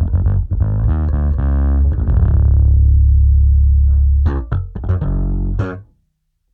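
Distorted electric bass playing a riff: a run of notes, then a long held low note, then a few short notes. The playing stops about six seconds in.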